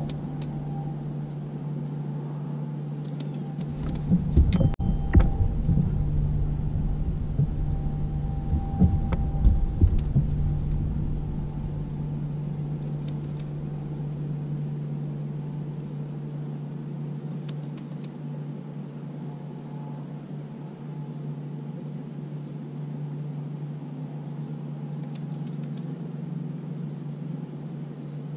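A boat motor runs steadily at trolling speed. For several seconds starting about four seconds in, there are irregular knocks and bumps from handling in the boat.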